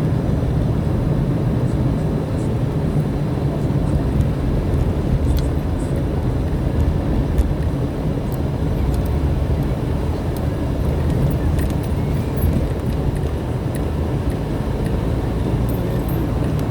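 Steady engine and road noise from the vehicle he is riding in while it drives along.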